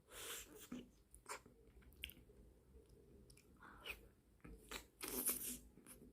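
Close-miked eating of ice cream: mouthfuls being bitten and chewed in a series of short, wet bursts, the loudest about five seconds in.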